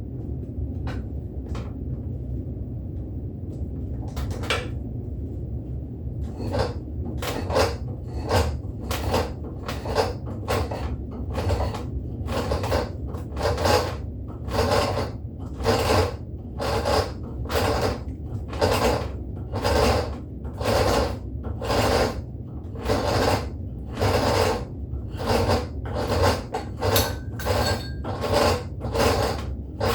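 Spokeshave strokes shaving a wooden axe handle: a few scattered strokes at first, then a steady run of about one and a half strokes a second. A steady low hum runs underneath.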